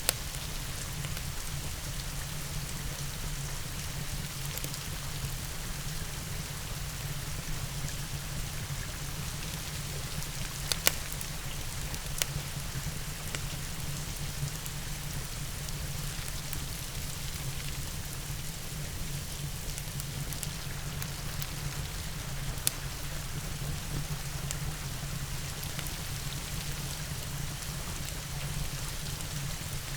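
Steady rain hiss mixed with a crackling wood fire. A few sharp pops stand out, two of them close together near the middle.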